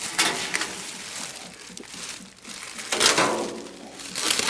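Rustling and crinkling handling noise in two stretches, one at the start and one about three seconds in.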